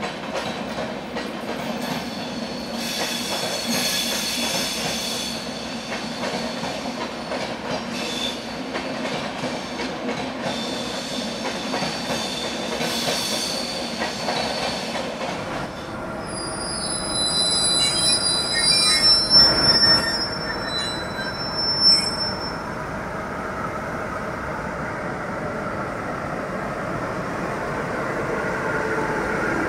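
Passenger train coaches rolling past over yard tracks, with metallic wheel squeal that comes and goes; the sharpest, highest squeals come about two-thirds of the way through. Near the end the sound of a WAP-7 electric locomotive hauling a train in grows louder.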